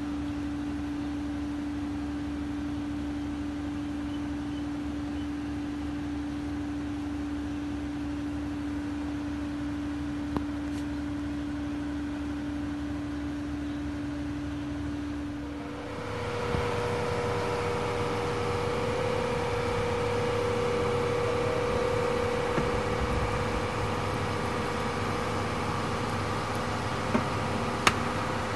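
Engine running steadily. About sixteen seconds in it speeds up to a higher, steady pitch and gets louder. A couple of sharp clicks come near the end.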